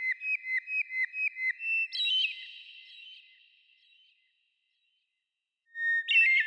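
Clear whistled birdsong chirps with a long echoing tail. A quick run of about eight short notes is followed by a higher flourish, then a break of silence and another burst near the end.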